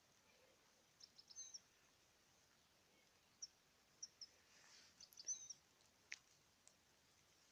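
European goldfinch giving short, high chirps and twitters, faint and scattered in several brief clusters, the loudest about five seconds in.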